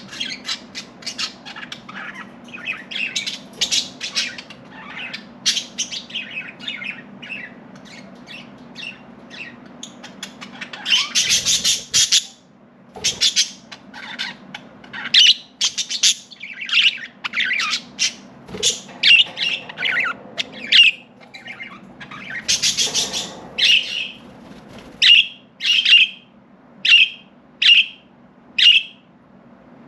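Budgerigars chirping and warbling in rapid, overlapping calls, with two louder, harsher bursts of calls, one about a third of the way in and one later. Near the end one bird repeats a single short chirp about once a second.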